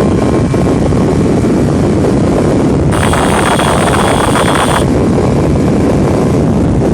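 Wind rushing over the microphone with a motorcycle engine running underneath, as on a ride on the TVS Apache RR 310. About three seconds in, a harsher hiss joins for nearly two seconds, then fades back to the steady rush.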